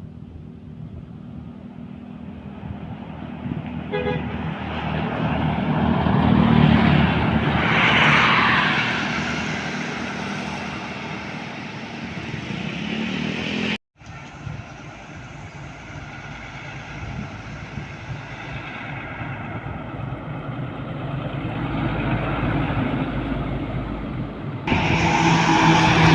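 Heavy trucks passing on a road: diesel engines swell as a vehicle approaches and fade as it goes by. A second pass follows after an abrupt cut, with a loud pitched horn sounding near the end.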